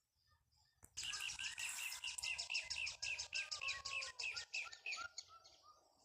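Birds singing: about a second in, one bird close by starts a fast run of repeated high notes, about five a second, which fades out near the end. Other birds chirp more softly throughout.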